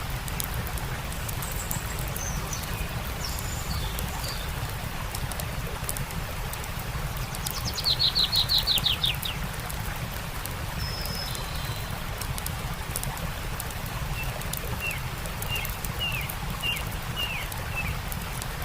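Songbirds calling over a steady rush of stream water and fine crackling ticks from a campfire. A loud rapid trill comes about eight seconds in, and a row of short falling chirps near the end.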